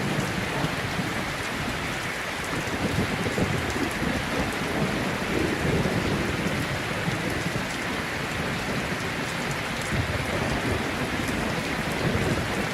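Heavy rain falling steadily, with low thunder rumbling underneath that swells and fades twice.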